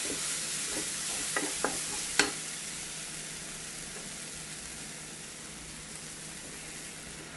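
Chopped onion and tomato with spice powders sizzling in oil in a nonstick pan, stirred with a wooden spatula. A few light knocks of the spatula against the pan come in the first couple of seconds, the loudest about two seconds in. The sizzle then fades slowly.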